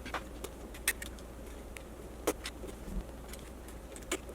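A handful of sharp clicks and small knocks, scattered and irregular, from parts and tools being handled while working a glued-in connector loose inside an electric unicycle, over a faint steady low hum.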